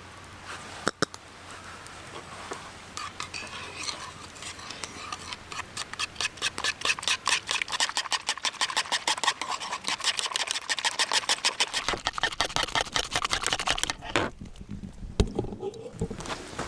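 Quick rhythmic stirring in a bowl, about five strokes a second, building up for several seconds and stopping about fourteen seconds in.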